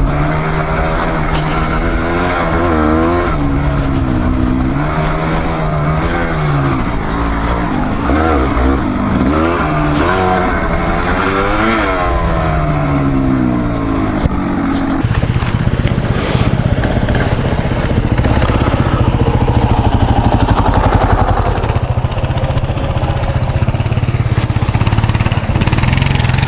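Dual-sport motorcycle engine under way, its revs rising and falling again and again with the throttle for about the first half, then holding a steadier, slightly louder note for the rest.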